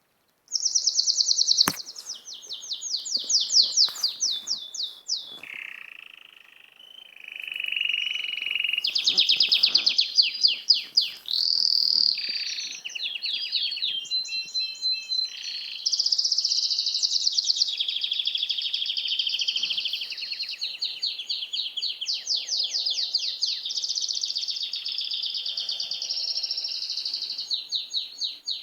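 A small songbird singing a long, varied song of fast trills and rapidly repeated high notes, with phrase after phrase and hardly a pause. It starts abruptly about half a second in.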